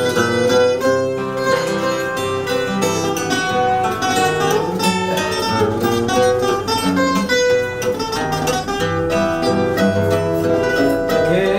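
Portuguese guitar and fado viola (classical guitar) playing an instrumental fado passage, fast plucked melody over strummed chords.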